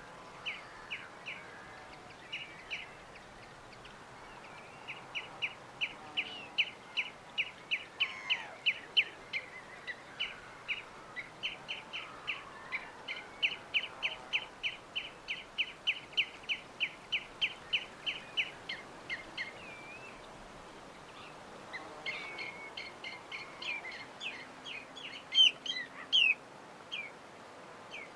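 A bird chirping in long rapid series of short, sharp notes, a few each second, breaking off near two-thirds through. It resumes with more varied calls that end in a couple of louder notes near the end.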